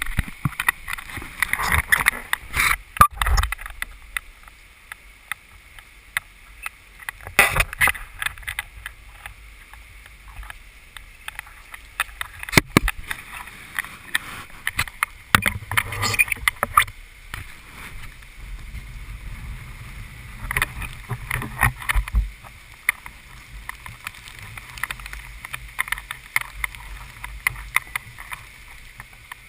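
Water sloshing and splashing around a boat, with irregular knocks and clatters.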